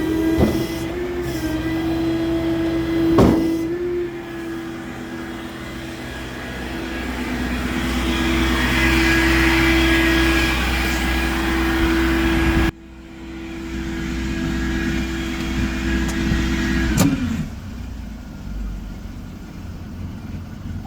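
A vehicle running with a steady hum over a low rumble. Partway through the sound drops suddenly, then about 17 s in the hum slides down in pitch and stops.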